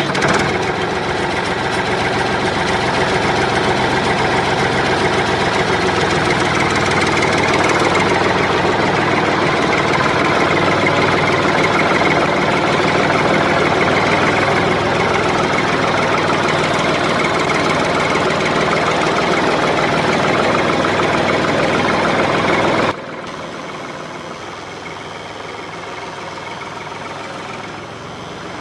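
An engine running steadily, then dropping suddenly to a quieter steady engine sound about 23 seconds in.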